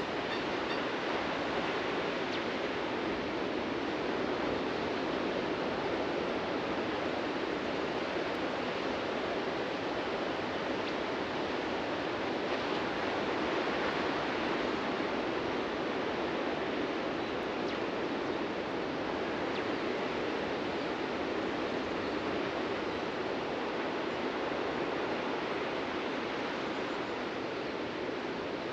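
Ocean surf washing onto a beach: a continuous rushing of breaking waves that swells gently a couple of times.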